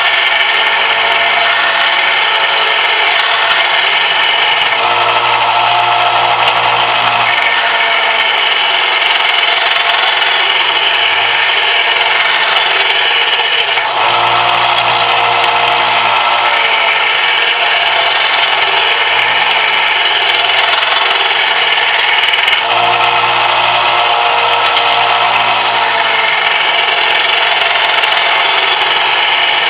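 Power sander running steadily while grinding down a brass fitting for a knife, with a dense, hissing grinding noise and no breaks. The tone shifts slightly every several seconds as the piece is pressed and moved against it.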